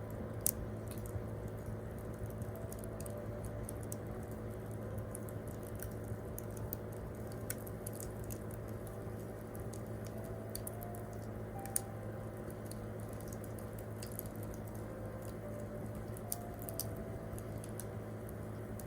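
Wood campfire crackling, with scattered sharp pops, under faint slow piano notes.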